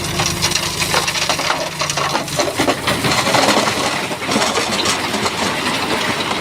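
Rock and stone grinding and clattering under a Shantui bulldozer's blade, a dense run of cracks and scrapes over the dozer's engine. The engine's steady tone fades about two seconds in.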